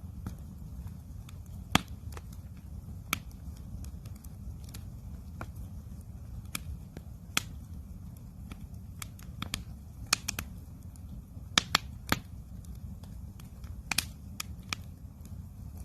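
Campfire wood crackling and popping: irregular sharp snaps, loudest about two seconds in and around twelve seconds in, over a steady low rush of the burning fire.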